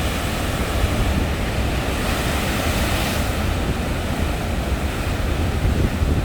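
Sea waves breaking and surging onto the shore, with a swell of hiss about two to three seconds in as a wave crashes, over steady wind rumble on the microphone.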